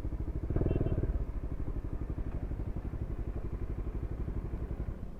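KTM Duke 250's single-cylinder engine running through a Leo Vince aftermarket exhaust, a steady, even exhaust beat that swells briefly louder about half a second in.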